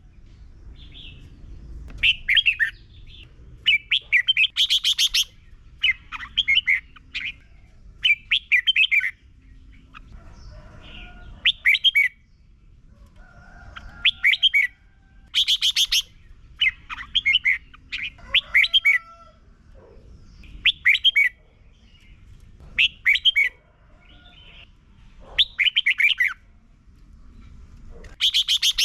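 Red-whiskered bulbul singing short, rich warbling phrases over and over, a new phrase every second or two with brief gaps between.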